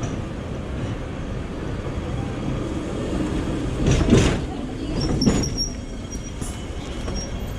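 Hong Kong double-decker tram running on its rails: a steady rumble of wheels and running gear, with two louder clatters about four and five seconds in. After them comes a faint, intermittent high wheel squeal.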